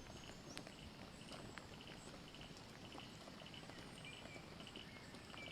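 Faint outdoor ambience: a low steady hiss with scattered high chirps and a few soft ticks.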